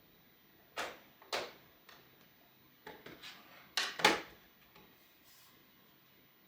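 A run of sharp clicks and knocks from hard 3D-printer parts being handled and fitted back into place, about six in all, with the loudest pair close together about four seconds in.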